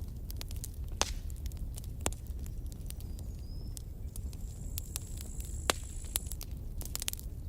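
Wood campfire burning: sharp, irregular crackles and pops over a low steady rumble of the flames, with a thin high whistle for a second or two past the middle.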